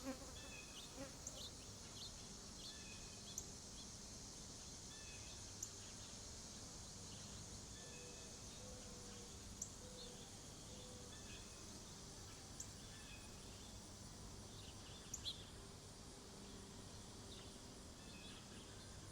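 Faint summer outdoor ambience at a bird feeder: small birds giving short high chirps, many in the first few seconds and scattered after, over a steady high insect buzz, with a few sharp ticks scattered through.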